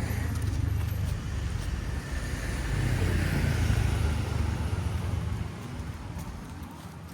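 A motor vehicle passing close by: a low engine and road rumble that swells near the middle, then fades away after about five seconds.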